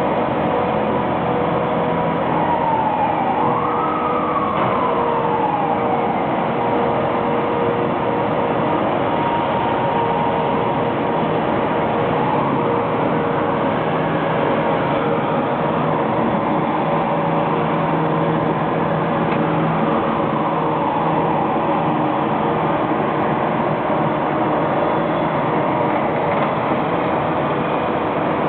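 Tractor with a sweeper broom running steadily, while a siren wails, rising and falling slowly three times.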